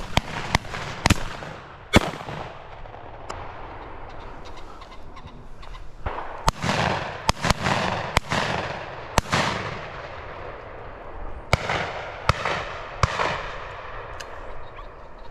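Shotguns firing at driven pheasants: about a dozen irregular shots from several guns along the line, some close and some farther off, the loudest about two seconds in and a cluster between six and ten seconds.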